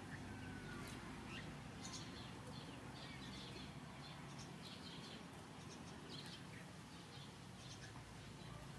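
Faint small birds chirping, short scattered chirps with an occasional brief falling whistle, over a steady outdoor background hum.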